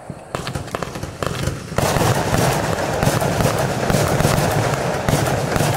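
Compound firework cake (Pyroshow Display Paradise, 241 shots) firing. It starts with a few scattered pops and cracks, then about two seconds in it breaks into a dense, continuous barrage of rapid bangs and crackle.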